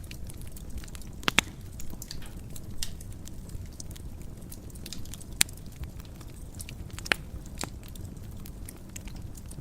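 Wood fire burning in a fireplace: a steady low rumble of flames with scattered sharp crackles and pops, the loudest about a second and a half in, around five seconds in and around seven seconds in.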